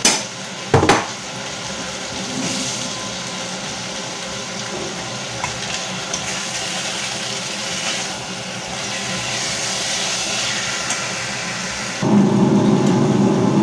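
Diced chicken breast and onion sizzling in hot oil in a frying pan as the chicken sears, with two sharp knocks in the first second. About twelve seconds in, a louder, lower rumble joins.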